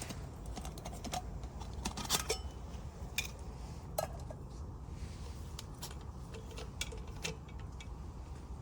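Irregular light clicks and taps, a cluster of them about two seconds in, over a steady low background rumble.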